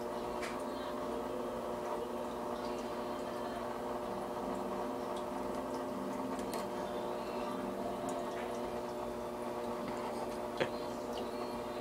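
Fish tank filter running: water bubbling and trickling over a steady hum, with scattered small ticks and one sharp click about ten and a half seconds in.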